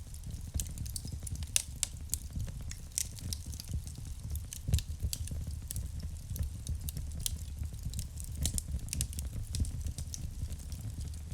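Wood fire crackling in a fireplace: irregular sharp pops and snaps over a low steady rumble of burning, with one louder pop a little under halfway through.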